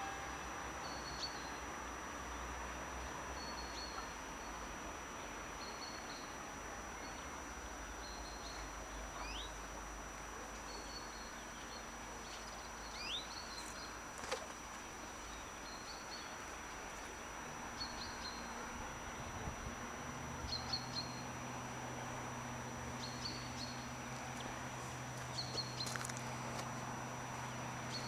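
Outdoor rural ambience with a bird repeating a short high chirp about every second and a half, and a few other quick bird chirps. A low steady hum comes in about two-thirds of the way through.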